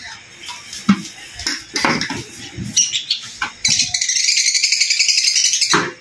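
HILDA cordless drill backing a screw out of a microwave oven's sheet-metal cover. The motor runs steadily for about two seconds from a little past halfway and stops suddenly. Before that come scattered clicks and knocks of tool handling.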